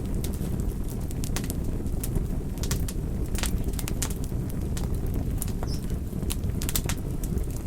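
Wood fire crackling: sharp, irregular pops and snaps, several a second, over a steady low rumble of the burning fire.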